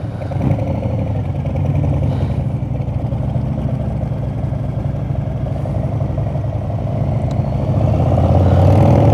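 Harley-Davidson V-twin motorcycle engine running at low speed, getting louder near the end as the bike pulls away.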